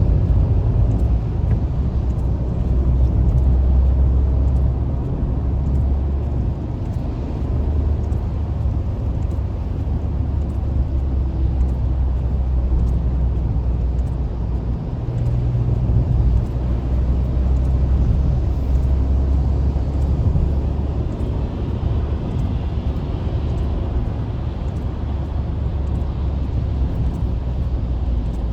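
Steady low rumble of a car driving at highway speed, engine and tyre noise, swelling and easing slightly over time.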